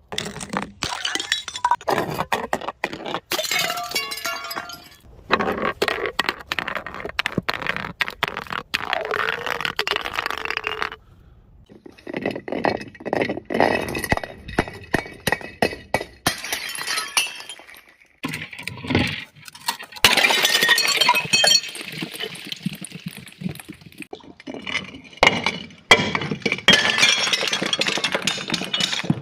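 Glass bottles breaking and being crushed: a long run of shattering, crunching and clinking glass, with a short pause about 11 seconds in.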